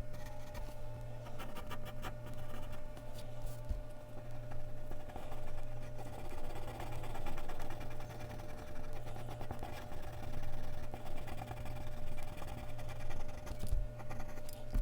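Mechanical pencil scratching across Bristol paper in quick, uneven strokes as a drawing is shaded, over a steady low electrical hum.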